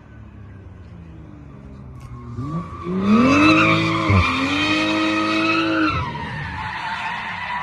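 BMW M340i G20's turbocharged straight-six revving hard while the tyres squeal as the car drifts. The revs climb about two and a half seconds in and dip briefly near the middle. They fall away about six seconds in while the tyre squeal trails on.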